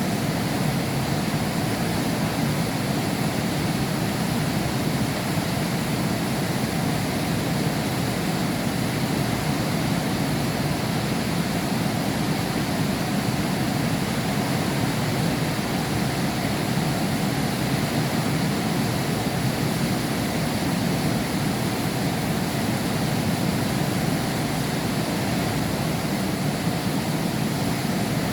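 Heavy rain falling steadily, heard from behind a window pane, an even rushing noise with no breaks.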